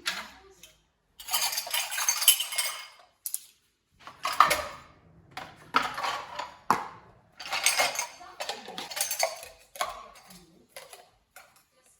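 Dishes and cutlery clattering and clinking as they are handled, in a series of short bursts with brief silent gaps between them.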